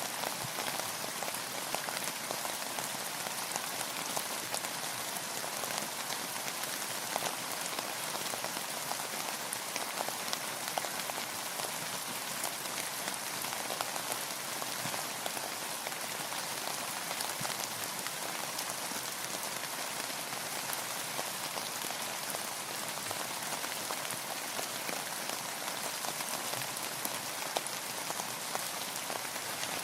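Steady rain falling, a continuous even hiss full of fine, closely packed drop ticks.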